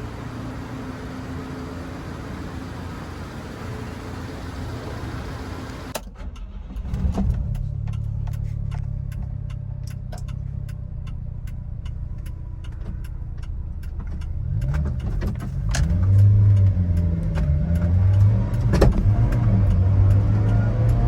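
Subaru Sambar kei truck's small four-cylinder engine. After a steady hum, the sound changes abruptly about six seconds in and a low engine note sets in. The engine idles with scattered light clicks, then is revved up and down several times in the last third.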